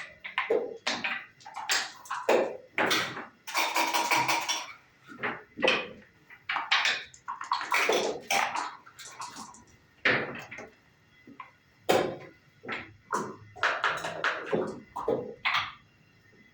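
Backgammon play: dice rattled and thrown and checkers clacked onto the board, an irregular run of short clicks and rattles with brief pauses.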